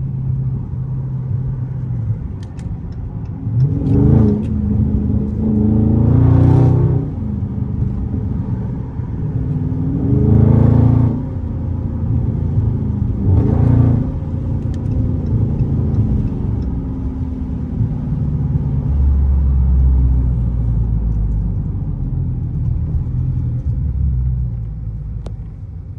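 Dodge Charger Scat Pack's 6.4-litre V8 with a mid-muffler-deleted exhaust, pulling hard under acceleration: the pitch climbs and drops four times in the first half, then settles into a deep, steady rumble at cruise.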